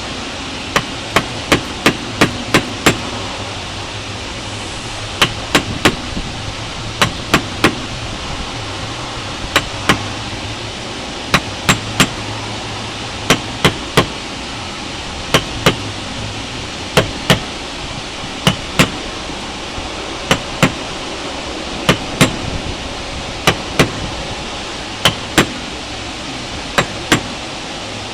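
A mallet striking a caulking iron to tap caulking cotton loosely into a wooden boat's plank seam. The taps are sharp and come in quick pairs and triples a second or two apart, over a steady background hiss.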